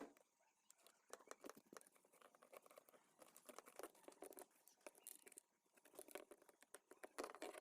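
Faint, irregular scratching and clicking, many short strokes close together.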